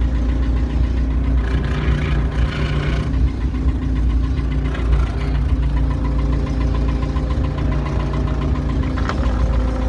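Old tractor's engine running steadily at a constant pace.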